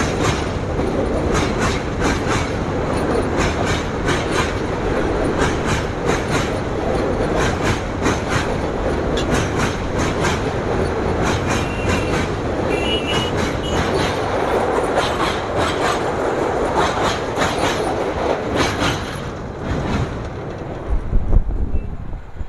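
Passenger train coaches rolling past, steel wheels clattering over rail joints in a steady run of clicks, with brief wheel squeal about halfway through. The clatter falls away near the end.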